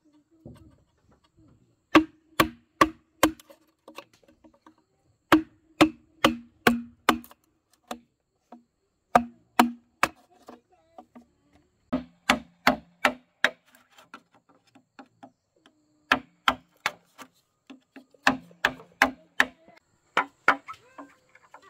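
A tool striking wood again and again, in quick runs of three to six sharp blows about two or three a second with short pauses between runs. Each blow has a brief low ring.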